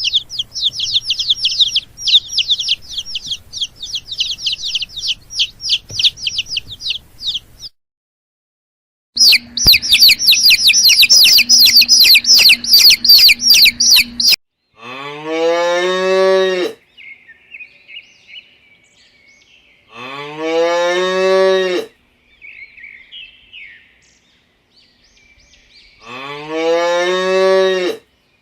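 Two stretches of rapid, high-pitched chirping, the second one louder. Then a cow moos three times, each a long low call that rises at the start and then holds, several seconds apart, with faint bird chirps in between.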